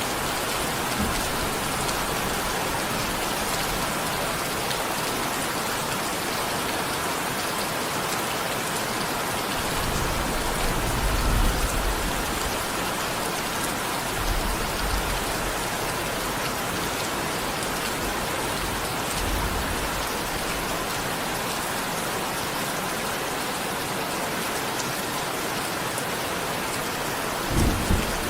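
Steady rain falling on a surface, with a few brief low rumbles, the strongest about ten to twelve seconds in and another just before the end.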